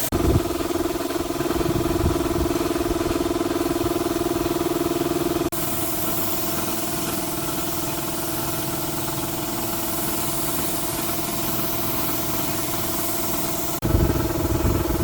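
Steady mechanical running noise, a constant hum with a broad hiss, changing abruptly about five seconds in and again near the end.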